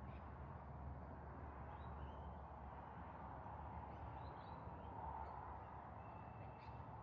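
Faint outdoor ambience: a low steady rumble with a few faint bird calls, short chirps and one held whistled note about six seconds in.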